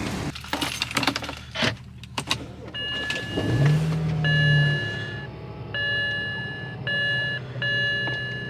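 A few sharp clicks and knocks, a brief low motor hum, then a run of electronic chime tones held for about a second each with short gaps between them, in a car.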